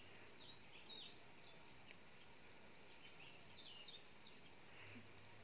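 Faint outdoor background noise with small birds giving short, quick chirps, scattered throughout.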